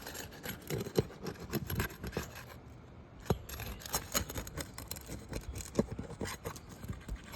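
Asphalt roof shingles being pried up to break their seal strips: irregular scraping and rubbing with many sharp clicks and snaps. The loudest snaps come at about one second, a little after three seconds and near six seconds.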